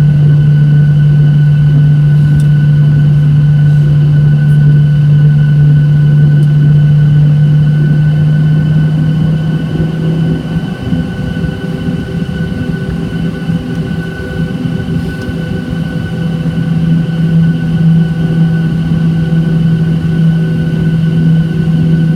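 Boeing 737-800 cabin noise: a steady jet-engine and airflow drone with a strong low hum and a faint steady whine above it. About halfway through it eases slightly and shifts in pitch, then builds back.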